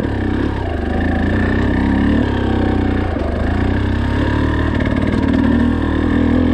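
Dirt bike engine running under load while riding, its pitch dipping and picking back up a couple of times as the throttle changes.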